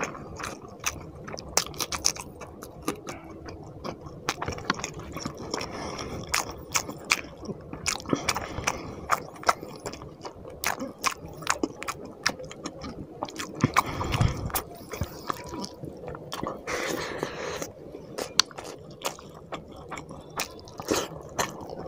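Close-up chewing and wet lip-smacking of a person eating rice and fish curry by hand, with many sharp smacks, a couple or more a second.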